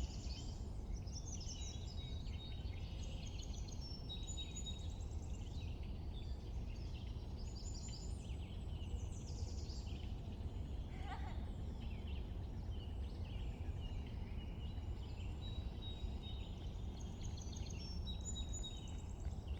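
Spring birdsong chorus: many birds chirping, trilling and whistling at once, overlapping without pause. One call sweeps down in pitch about halfway through. A steady low rumble runs underneath.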